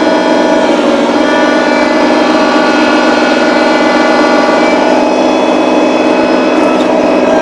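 Small tractor's engine running steadily at a constant speed.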